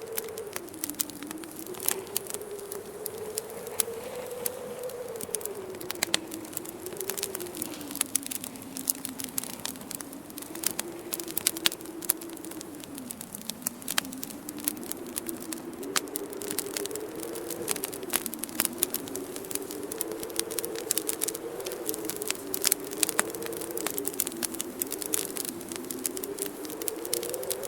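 Wood fire crackling with many sharp pops and snaps, over a howling winter wind whose moaning pitch slowly rises and falls.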